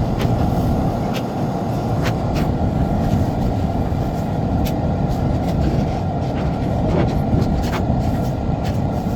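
A vehicle running with a steady low rumble, with scattered sharp clicks and knocks over it.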